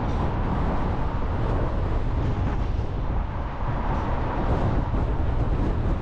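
A car being driven, giving a steady, even rumble of road and wind noise.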